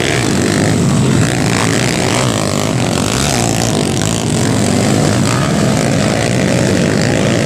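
Underbone motorcycle engines running loud and steady at a motocross race.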